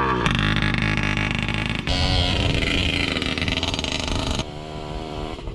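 2007 Yamaha PW80's 80cc two-stroke single-cylinder engine running under throttle as the pit bike is ridden, its pitch rising and falling; it eases off and gets a little quieter near the end.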